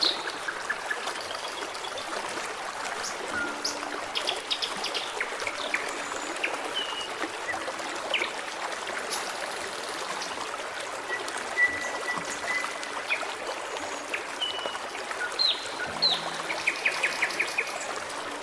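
Forest stream running steadily, with small birds singing over it: short chirps and whistles, a rapid trill about four seconds in and again near the end, and a held whistle around the middle.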